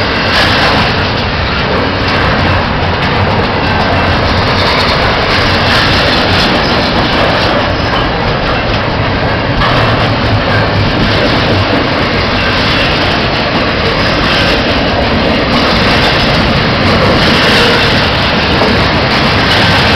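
Double-stack intermodal container well cars of a freight train rolling steadily past: loud, continuous noise of steel wheels on the rails.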